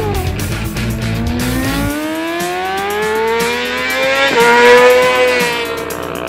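A racing motorcycle's engine accelerating hard on track, its revs climbing steadily and then dropping sharply at a gear change about four seconds in, with background music.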